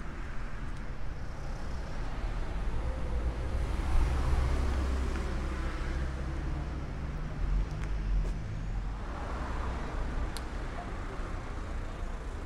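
Street traffic: a car passes close by, its engine and tyres swelling to a peak about four seconds in and then fading, with a second vehicle passing later on.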